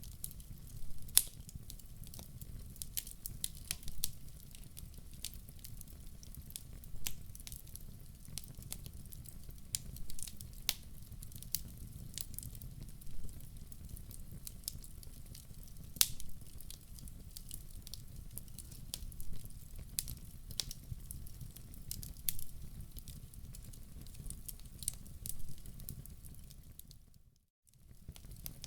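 Wood fire crackling in a fireplace: irregular sharp pops and snaps over a low steady rumble of the burning fire. Near the end the sound briefly fades out and comes back.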